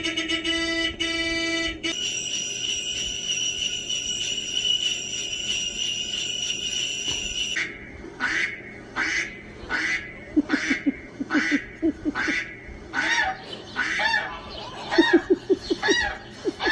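Recorded sound effects played to a dog. First a horn-like tone sounds in three short pulses, then a long steady tone holds for about five and a half seconds. From about eight seconds in comes a run of repeated falling honking calls like geese, roughly two a second.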